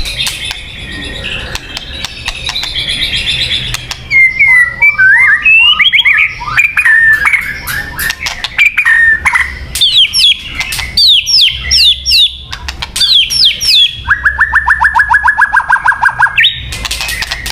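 White-rumped shama singing a loud, varied song. Whistled phrases sweep up and down and run into series of quick repeated notes mixed with sharp clicks. Near the end comes a fast trill of about seven notes a second.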